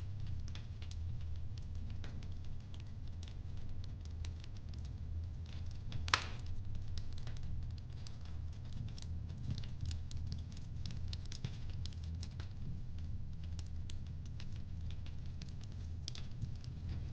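Fireplace crackling: a steady run of small pops and snaps over a low rumble, with one louder pop about six seconds in.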